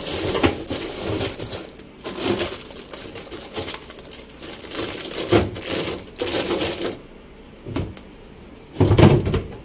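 Food packets and containers being handled and set onto refrigerator shelves: irregular clatter and rustling, with a heavier knock near the end.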